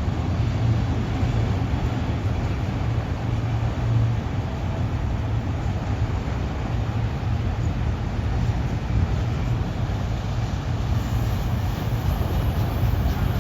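Heavy engines running with a steady low rumble and hum.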